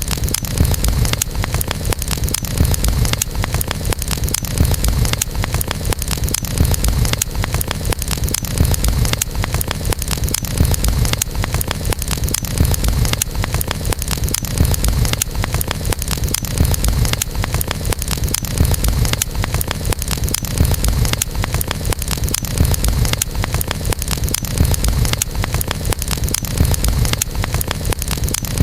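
Campfire burning: wood crackling with frequent small pops over a steady low rumble.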